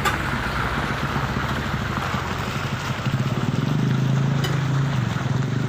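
Heavy diesel truck engine running with a low pulsing note, growing louder from about three seconds in as it draws near.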